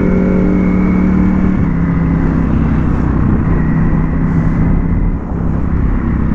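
Ducati Panigale V4S motorcycle engine running at a steady pitch under way, with a slight drop in pitch about a second and a half in and a brief dip in loudness near the end.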